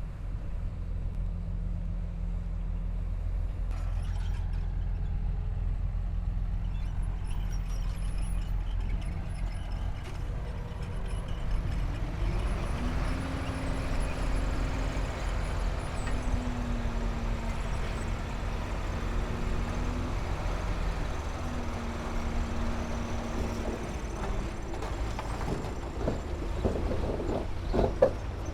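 Diesel engine of heavy earthmoving machinery running with a steady low rumble. About twelve seconds in, a higher whine rises and holds for roughly ten seconds. Near the end come a few knocks and one sharp bang.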